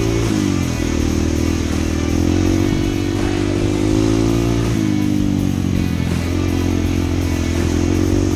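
Honda CT125's single-cylinder engine running under way, its pitch dipping and climbing back about half a second in and again near five seconds, as the throttle or gear changes.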